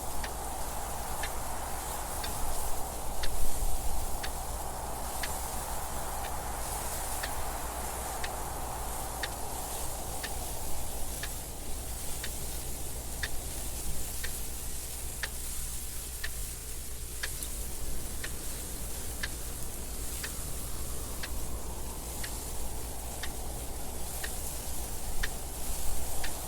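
A clock ticking steadily and evenly, over wind noise that swells, dies down about two-thirds of the way in, and rises again near the end.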